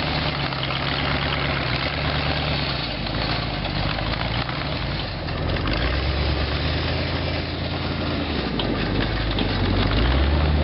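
Chrysler 318 V8 engine of a homemade articulated 4x4 tractor running at low speed, its pitch wandering a little, then picking up and getting louder near the end.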